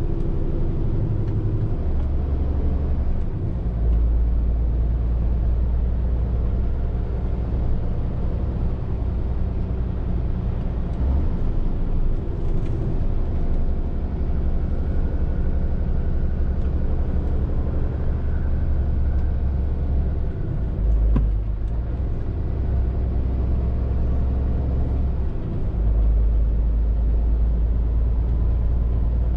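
Scania R450 lorry's 13-litre straight-six diesel running under way, a steady low drone whose note shifts a few times, near 4 seconds, around 21 seconds and at about 26 seconds.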